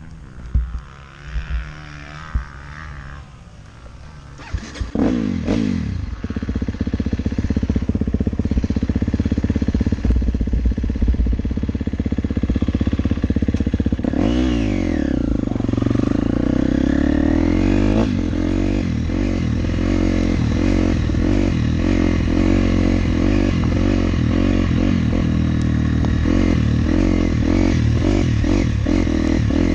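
Motocross dirt bike engine running and being ridden. A few knocks come first, then the engine note rises about five seconds in and settles into a steady run. In the second half the revs rise and fall rapidly over and over.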